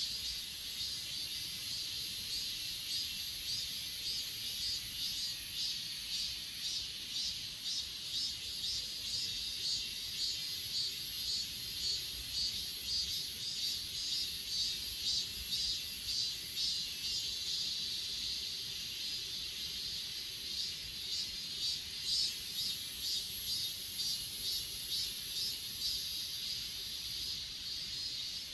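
Chorus of grass insects (crickets) singing: a steady high-pitched trill, with another insect's pulsed chirps repeating about twice a second through much of the stretch.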